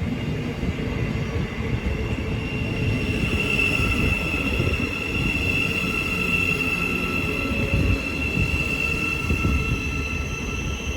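Thameslink Class 700 electric multiple unit pulling into the platform and slowing to a stop, its running rumble overlaid with a steady high-pitched squeal that grows stronger from about three seconds in.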